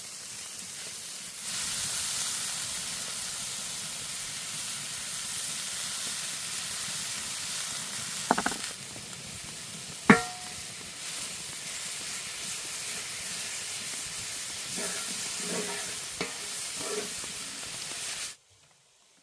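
Chicken frying in hot oil, a steady sizzle that gets louder about a second and a half in. A short rattle comes just before a sharp, ringing metallic clink about ten seconds in, and a few knocks follow near the end. The sizzle cuts off abruptly shortly before the end.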